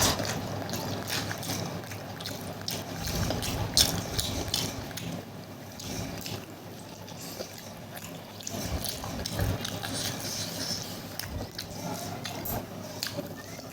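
Close-up eating sounds: wet chewing and slurping of curry-soaked masala noodles, with a steady run of small sharp mouth clicks.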